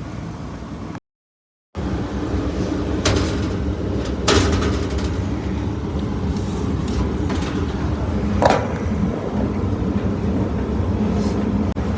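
Steady low mechanical hum of rooftop HVAC equipment running, with a few sharp metallic clicks and clanks of tools or parts being handled. The sound cuts out completely for under a second near the start.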